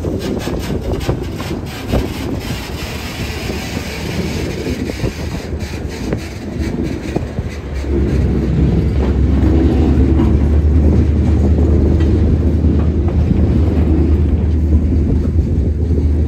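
Union Pacific local freight train rolling by, its wheels clicking over rail joints. About halfway through, a louder steady low drone of the GP40-2 diesel locomotive's engine comes in.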